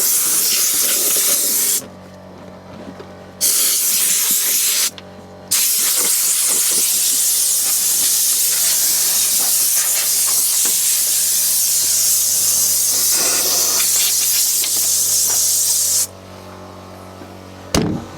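Compressed air hissing from an air hose in bursts: two short blasts, then one long blast of about ten seconds that cuts off near the end. A steady low hum runs underneath.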